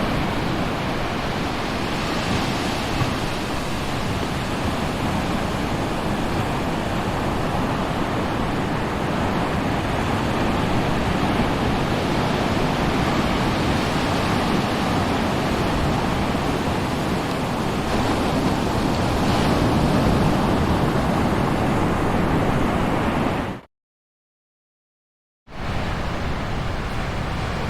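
Ocean surf: a continuous, dense wash of breaking waves with gentle swells in level. About 23 seconds in it cuts off to silence for two seconds, then the surf resumes.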